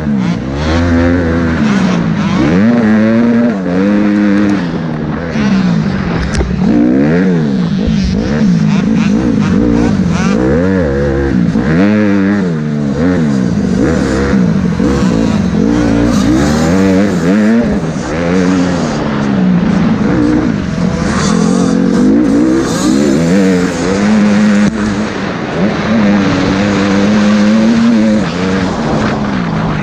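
Several motocross bikes revving up and down on the track, their engine notes rising and falling and overlapping.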